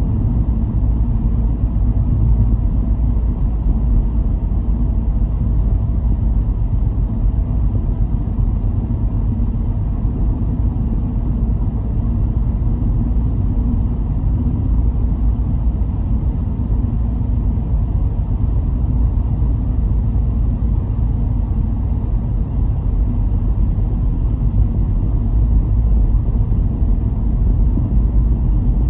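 Car cabin or road noise while driving: a steady low rumble of engine and tyres, unchanging throughout.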